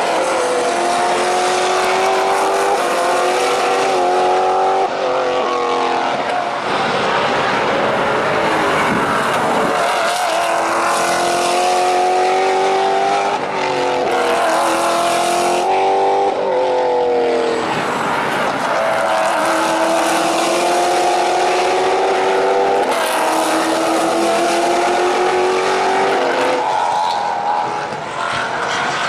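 Maserati GranTurismo MC Trofeo race cars' V8 engines at full throttle, the pitch climbing steadily through each gear and dropping sharply at every upshift, several times over, with a noisier stretch of mixed engine sound in between.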